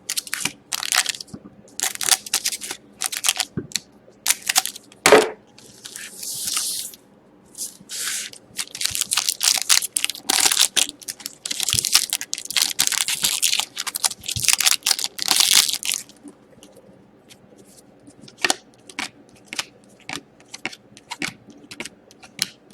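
Trading card packs being torn open and their wrappers crinkled: a run of sharp tearing and rustling that is densest through the middle, then thins to light clicks and taps as the cards are handled.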